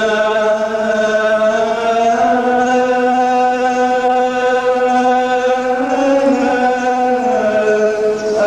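A male priest's solo voice chanting Coptic liturgy, drawing one syllable out into a long melisma. The note is held and shifts slowly in pitch, without a break.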